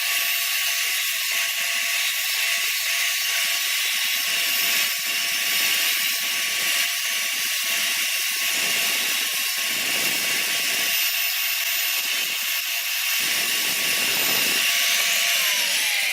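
Electric power tool running steadily at speed, with a high hissing noise over a steady motor whine. Near the end the whine slides down in pitch as the motor spins down.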